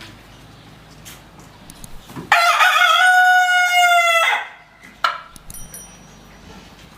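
A rooster crowing once: a single long call lasting about two seconds, followed by a brief sharp sound.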